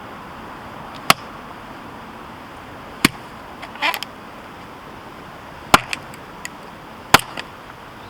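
Husqvarna hatchet chopping into firewood: four sharp strikes a second or two apart, with a short crackle after the second strike and a few light knocks.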